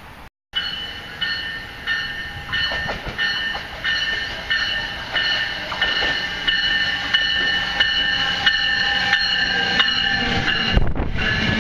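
Multilevel commuter train approaching and passing along the platform, its rumble growing louder, with a high chiming tone repeating about every two-thirds of a second and a heavy low thump near the end.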